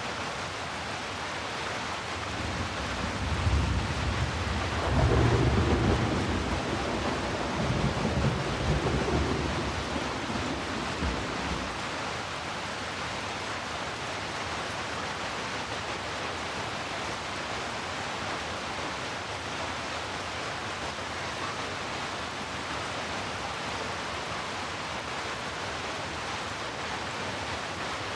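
Steady heavy rain hissing, with a roll of thunder that rumbles in about two seconds in, is loudest around five seconds and dies away by about twelve seconds.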